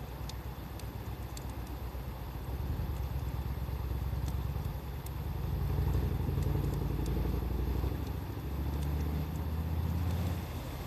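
A motor vehicle's engine running nearby, a low steady hum that shifts in pitch and grows louder through the middle, over faint crackles of a wood campfire.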